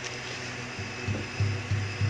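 Steady hiss from a gas stove burner and the pot of chilli chicken sauce cooking on it, with a low hum underneath.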